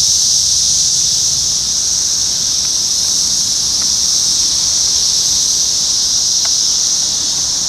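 Chorus of Brood X 17-year periodical cicadas: a loud, steady, high-pitched drone from many insects singing together in the trees.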